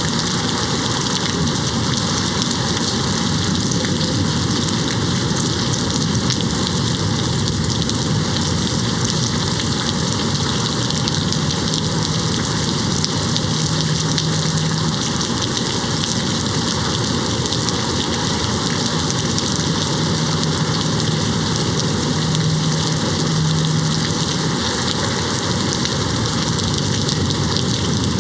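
Steady, even rain hitting a window pane, a dense hiss of drops with no single strike standing out.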